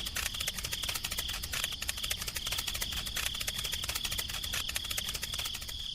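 A small machine rattling with rapid, even clicks, which stop abruptly at the end, over a steady high whine.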